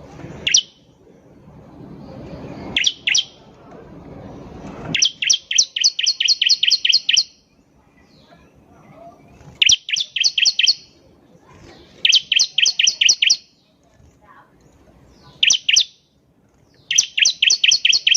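Bar-winged prinia (ciblek) singing in repeated bursts of sharp, high chirps, about four notes a second. There are longer trills about five and twelve seconds in, and a short phrase near the end.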